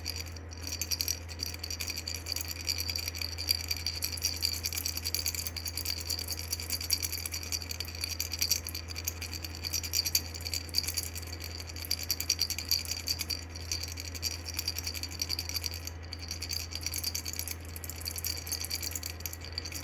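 Plastic coffee-cup-shaped baby rattle toy being shaken continuously, a dense, fast, bright rattling of the beads inside, with brief pauses.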